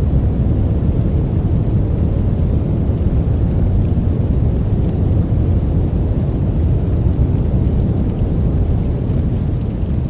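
Steady, deep noise from a white-noise sleep track, even and unbroken, with most of its weight low down and little hiss on top.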